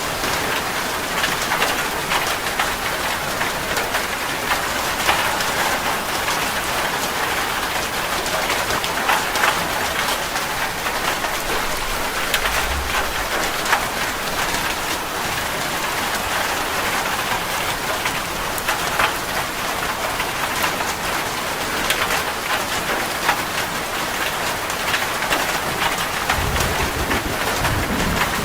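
Steady rain falling hard, individual drops pattering and splashing on a surface. A low rumble of thunder comes in near the end.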